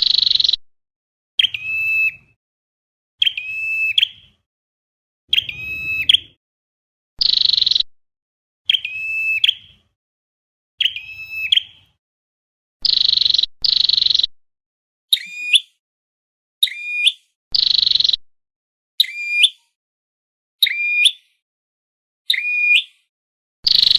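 Flowerpecker calls repeated over and over, about one every one and a half to two seconds. Some are sharp clear notes that drop at the end, others short harsh buzzy notes. This is a looped lure recording for trapping.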